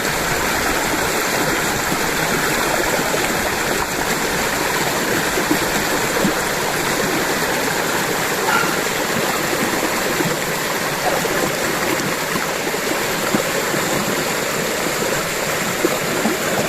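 River water flowing and babbling steadily, an even rushing with small splashy ticks.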